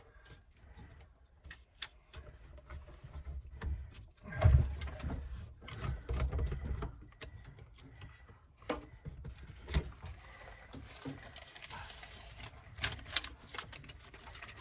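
Irregular knocks, clicks and handling noise, with a heavy low thump about four and a half seconds in.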